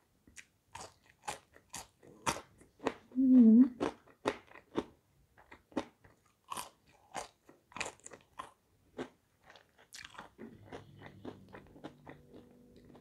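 Chewing and crunching on French fries: irregular wet mouth clicks and crunches, with one brief low hum of the voice about three seconds in.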